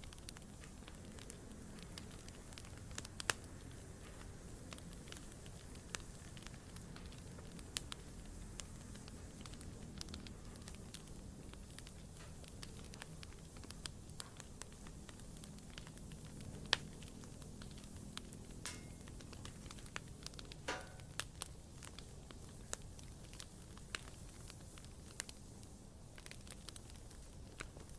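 Wood campfire burning: a steady low rumble of flames with scattered sharp crackles and pops, and a brief whistling note about two-thirds of the way through.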